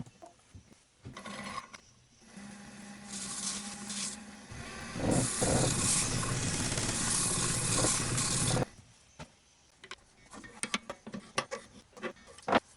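Abrasive sanding paste being rubbed onto turned wood spinning on a lathe, with the lathe's steady hum underneath. The rubbing hiss builds from about two seconds in, is loudest over the middle and stops abruptly near nine seconds. A few light clicks and knocks follow.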